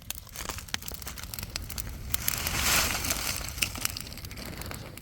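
Rustling and crackling, with scattered clicks and a louder rush of noise about two to three seconds in.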